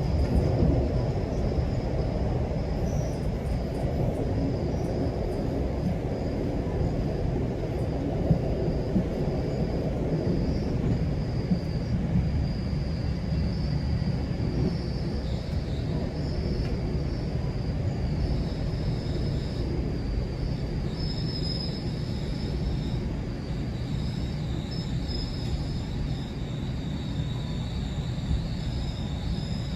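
GO Transit commuter train running along the track: a steady low rumble of wheels on rails, with a faint high-pitched whine throughout.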